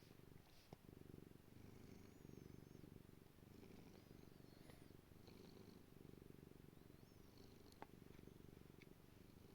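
Domestic cat purring steadily at close range, a soft low rumble that goes on throughout, with a sharp click about eight seconds in.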